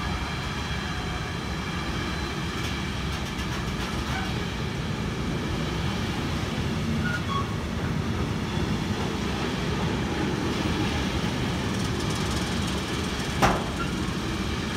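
A train running past on the track with a steady rolling rumble and a faint high ringing from the wheels on the rails. There is a single sharp clack about a second before the end.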